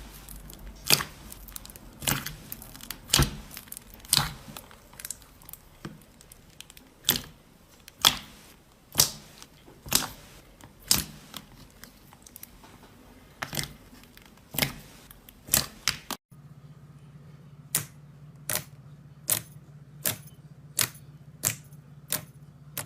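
Slime being pressed and poked, making sharp wet clicks and pops about once a second. About two thirds of the way through there is a short break, after which the clicks come a little faster over a steady low hum.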